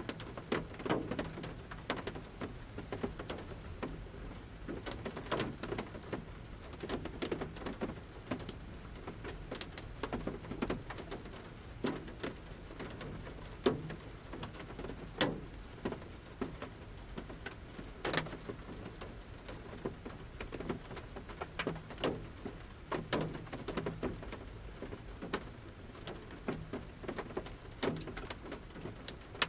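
Large raindrops falling from the forest canopy onto the roof of a camper van, heard from inside: separate drops pattering at irregular intervals, some much louder than others, over a soft steady rain hiss.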